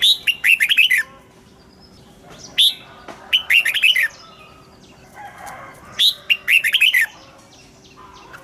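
Red-whiskered bulbul singing: three short phrases a few seconds apart, each a sharp rising note followed by a quick run of falling whistled notes.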